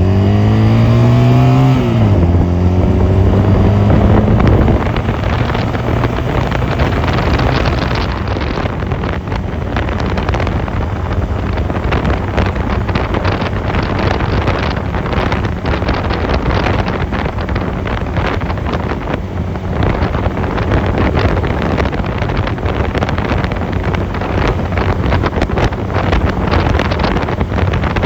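Honda 250cc motorcycle engine accelerating, its pitch climbing and then dropping back abruptly about two seconds in. It then runs at a steady speed while wind buffeting on the microphone grows and mostly covers it.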